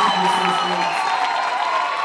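Audience applauding and cheering, with voices calling out over the clapping.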